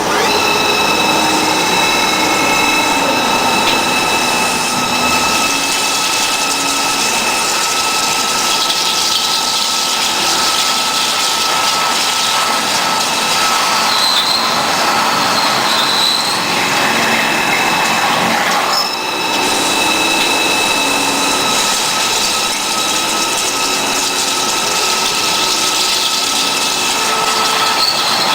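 CNC high-speed drilling machine running, a steady high whine from the spindle over a dense cutting and machine noise. The whine drops out briefly about two-thirds of the way through, then resumes.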